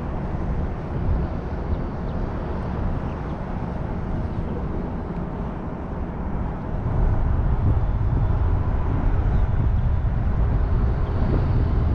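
Motorboat running past at speed, a steady engine and hull noise that grows louder about seven seconds in.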